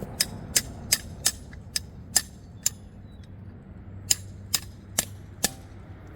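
Sharp metallic clicks of hand tools working on a fire hydrant's bonnet hardware: a run of about seven, roughly three a second, then a pause and four more.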